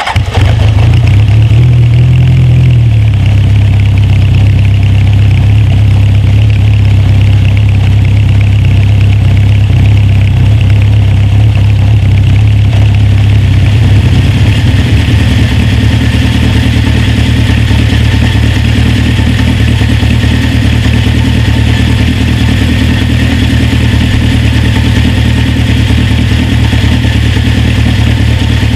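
Honda CB750 K2's air-cooled inline four-cylinder engine idling steadily, running smoothly enough to leave a filled water glass nearly still. It comes in abruptly at the start, and its tone shifts slightly about halfway through.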